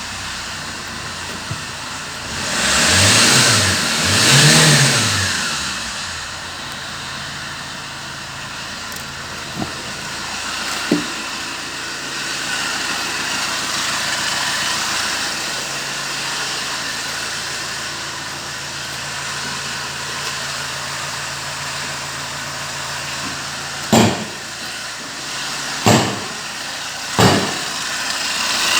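Kia Ceed 1.6 D4FB four-cylinder turbodiesel running: revved twice about three seconds in, then idling steadily. Near the end come three sharp knocks, a second or two apart.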